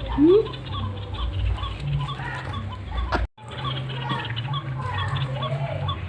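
Truwok birds calling: one loud upward-sweeping call near the start, then a run of short repeated notes over a low steady hum, broken by a brief dropout a little past three seconds in.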